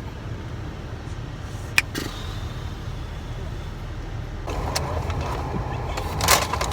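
Steady low rumble of a car heard from inside the cabin, with a single sharp click about two seconds in and a little more rustling noise toward the end.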